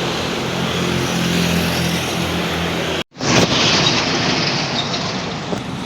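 Road traffic: vehicle engines running steadily with a low hum. About three seconds in, it cuts off abruptly and a louder, hissier stretch of traffic noise begins, then slowly fades.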